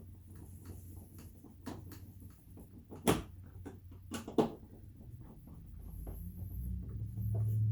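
Small clicks and knocks of a screw and tool being handled while a door-trim screw is fitted, with two sharp clicks about three and four and a half seconds in, over a low hum that grows louder near the end.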